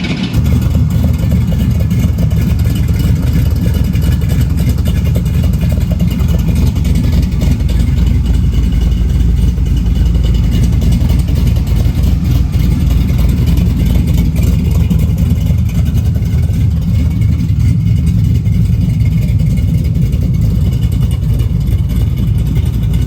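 Pontiac Trans Am's engine idling steadily with a loud, even low rumble, holding at about 650 to 700 rpm on its new tune.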